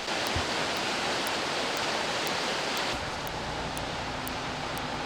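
Steady rushing noise of fast-flowing, rain-swollen river water. About three seconds in it changes abruptly to a duller, lower rumble with a faint steady hum.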